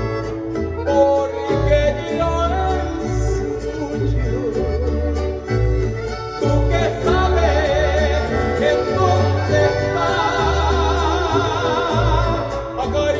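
Mariachi music with a loud, steady melody played with heavy vibrato over a pulsing, on-beat bass line.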